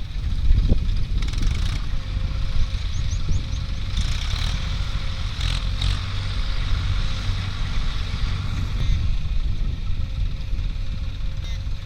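Diesel engines of a JCB backhoe loader and tractor running with a steady low rumble, and a few short knocks of machinery clatter.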